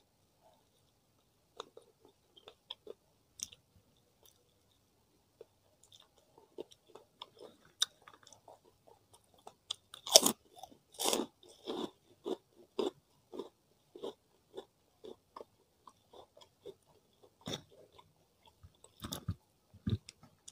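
Close-miked eating sounds of a person eating grilled chicken and rice with his hands. A few scattered wet mouth clicks come first, then steady chewing about twice a second, with two louder crunchy bites near the middle.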